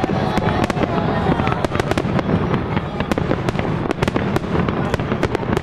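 Aerial fireworks shells bursting in quick succession: a dense, unbroken run of sharp bangs, several a second, over a continuous low rumble.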